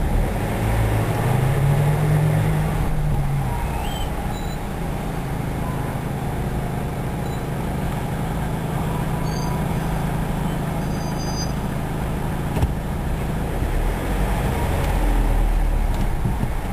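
Car engine running with a steady low drone, heard from inside the cabin. A single sharp click comes about twelve seconds in, and the engine pulls harder near the end as the car moves off.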